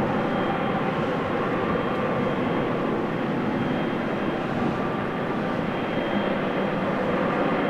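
Jet engines of a Boeing 777F freighter (GE90 turbofans) running with a steady rush and a faint thin high whine that comes and goes.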